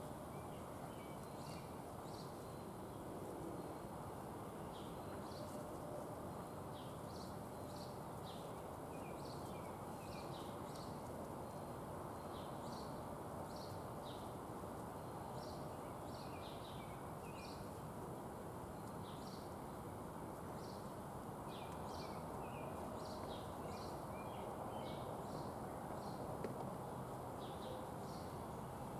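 Small songbirds chirping repeatedly, short high chirps coming one or two a second, over a steady outdoor background noise.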